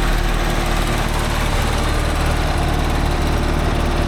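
Allis-Chalmers HD5 bulldozer's GM two-stroke diesel engine running steadily, freshly brought back to life after years standing.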